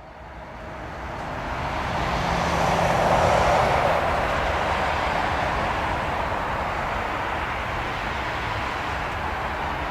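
Boeing 777-300ER airliner's twin GE90-115B turbofan engines coming in to land, the roar swelling as the jet approaches, loudest about three seconds in, then holding steady. A thin high fan whine sounds over the first few seconds.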